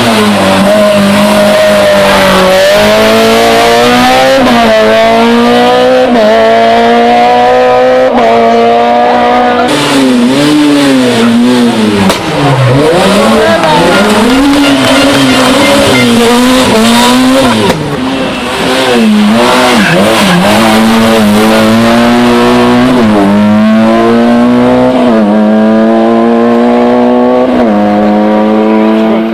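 Rally car engines revving hard, the pitch climbing in steps as they change up through the gears, falling low as a car slows for a tight hairpin about twelve seconds in, then rising again as it accelerates away.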